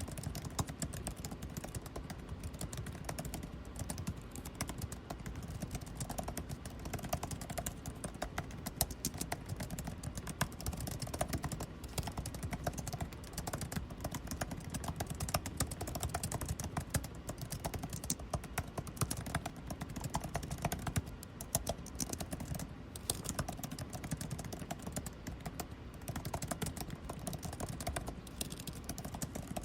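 Continuous irregular typing on a computer keyboard, key clicks coming in quick runs, over a steady air-conditioning hum.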